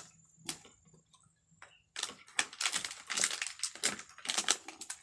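Close-up eating sounds: a few scattered clicks, then from about two seconds in a dense run of crackly smacking and crunching as grilled fish is chewed.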